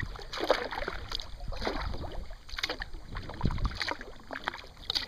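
Kayak paddle strokes: the blades dipping and splashing in the water, with dripping between strokes, about one stroke a second.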